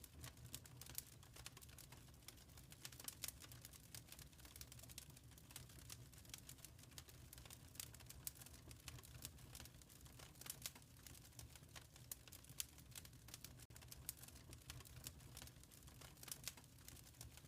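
Wood fire crackling in a fireplace, with quiet irregular pops and snaps over a steady low rumble.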